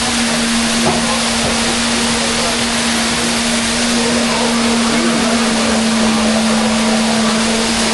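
Waterfall pouring over a swim-up pool bar: a loud, steady rush of falling water, with a steady low hum underneath.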